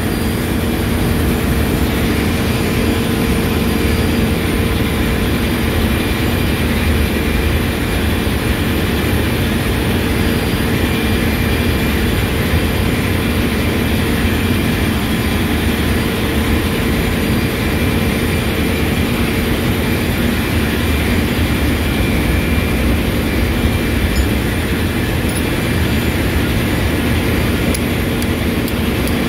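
Overhauled lube oil purifier, a centrifugal separator, running steadily: a constant mechanical drone and hum with a low rumble, unbroken throughout.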